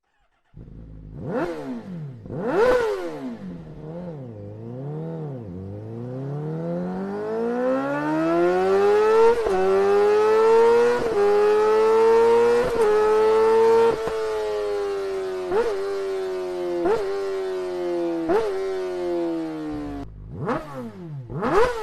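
Honda CBR1000RR Fireblade inline-four engine through an Akrapovic exhaust. It gives two sharp throttle blips, then a long rev climbing in pitch, held high with several brief dips. It then eases down with short spikes, cuts off suddenly and ends with two more quick blips.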